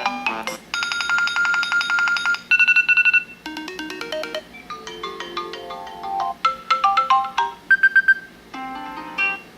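A string of different iOS 7 iPhone ringtones previewed one after another, each a short electronic melody lasting about a second before the next one starts abruptly.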